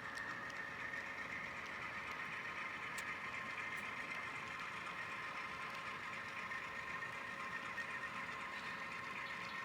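HO scale sound-equipped diesel locomotives, a GP7 and three RS-32s with ESU LokSound decoders, playing steady diesel engine sound as they pull a long freight train up a grade, with a couple of faint clicks from the rolling train.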